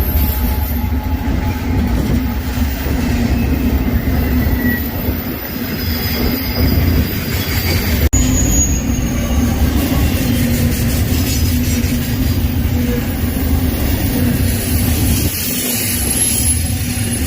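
Freight train rolling past, a steady rumble of cars on the rails with faint, thin wheel squeals coming and going.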